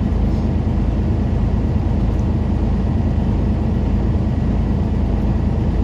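Semi truck's diesel engine running steadily during a parked diesel particulate filter regeneration, a continuous low drone.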